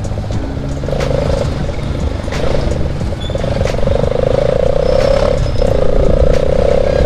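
Bajaj Pulsar NS200 single-cylinder motorcycle with a loud aftermarket exhaust pipe, riding; the exhaust note comes and goes several times over a continuous low rumble of wind and road noise.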